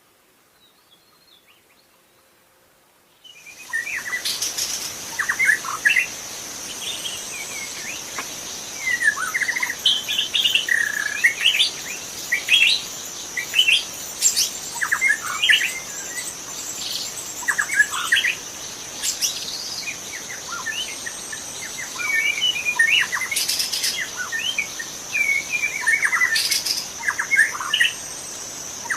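White-rumped shama singing a rapid, varied string of short whistled phrases, starting about three seconds in, over a steady high-pitched insect drone.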